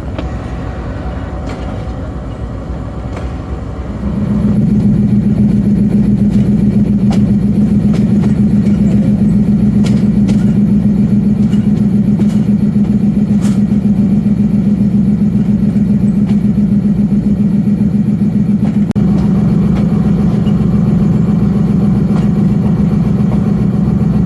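Locomotive 4555's diesel engine running loudly under power as the train pulls out, a steady deep drone that steps up sharply about four seconds in and then holds level.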